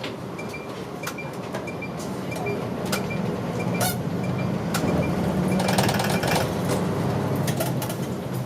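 Route bus's diesel engine heard from inside the cabin, growing louder about halfway through as it pulls harder, with a regular light ticking about twice a second in the first few seconds and scattered rattles and clicks from the body.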